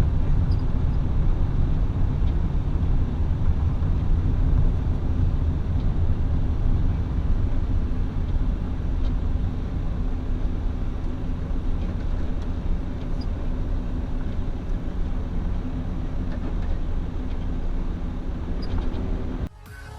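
A car driving, with a steady low engine and road rumble that eases slightly over time, then cuts off suddenly near the end.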